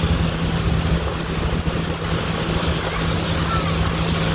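Tour boat's motor running steadily under way: a constant hum over a low rumble, with wind noise on the microphone.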